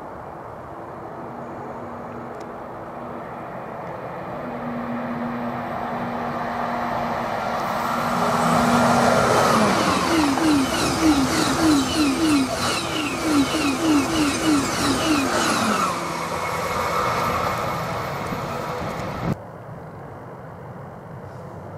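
High-speed electric passenger train approaching and rushing past at speed. Its pitch drops as it passes about nine to ten seconds in, and a fast, regular rhythm runs for several seconds as the carriages go by. The sound then fades and cuts off suddenly near the end.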